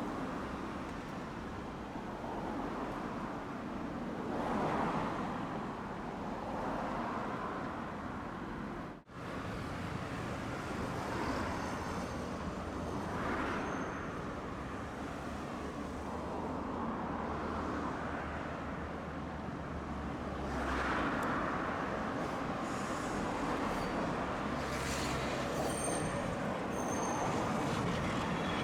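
Road traffic on a city street, with several vehicles passing one after another, each swelling and fading. Near the end, faint high-pitched squeals come in.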